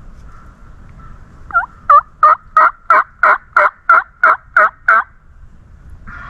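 Turkey yelping: a loud, even series of about eleven yelps, roughly three a second, starting a second and a half in and lasting about three and a half seconds.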